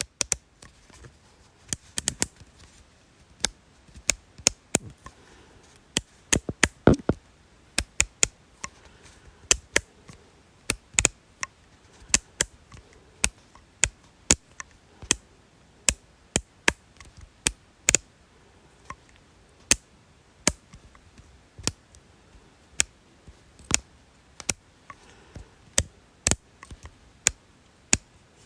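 Sharp, crisp clicks of a small hard object, repeated irregularly at about two a second, some coming in quick pairs.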